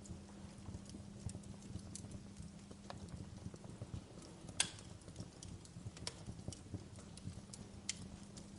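Wood fire burning in a fireplace, logs crackling with scattered sharp pops over a low steady rumble of the flames; the loudest pop comes about halfway through.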